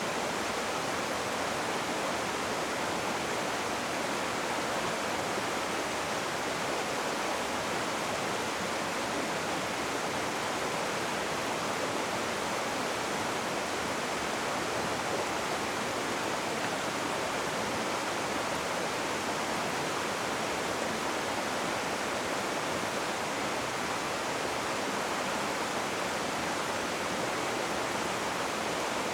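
Rushing river water: a steady, even noise with no breaks or surges.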